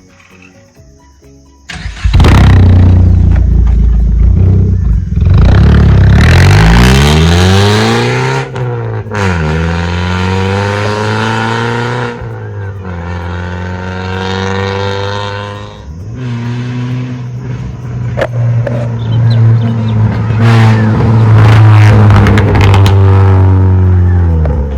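Maruti Ertiga's engine revving through an aftermarket valvetronic exhaust. It is loud and comes in about two seconds in, its pitch climbing and falling with each throttle blip, with a few sharp crackles in the later revs.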